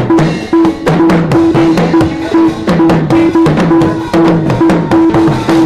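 Live gospel band playing between sung lines: a drum kit beating a steady rhythm under a repeating, sliding bass line and a pulsing held note.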